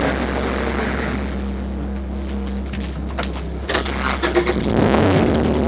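Honda Civic race car's engine running at a steady idle, heard from inside the cabin, with a few sharp clicks partway through. It grows louder near the end.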